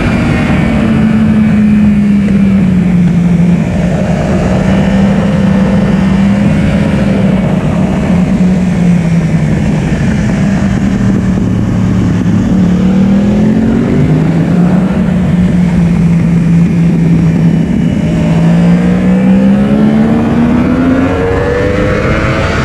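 Yamaha R1 inline-four engine heard from onboard the bike at track speed, with heavy wind rush. The engine note sags and climbs as the rider works the throttle, rising hard twice, about halfway through and near the end.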